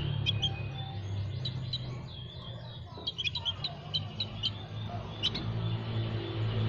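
Small songbirds chirping: many short, high, quick notes, some in rapid runs about halfway through, over a steady low rumble.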